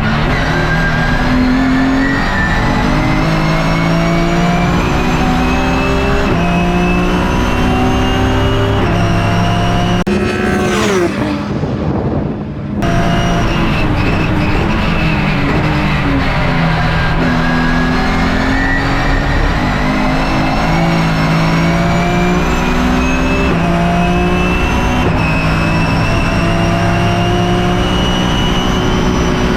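BMW E36 M3 race car's S54 straight-six under hard acceleration, the pitch climbing through the revs and dropping sharply at each quick upshift of its sequential gearbox. About ten seconds in it lifts off, going briefly quieter with a falling pitch as for braking and downshifting, then pulls up through the gears again.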